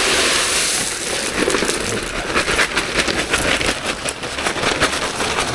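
Gravel being poured out of a bag into the dug-out base: a hissing rush of stones at first, settling after about a second into a scattered clatter of small stones.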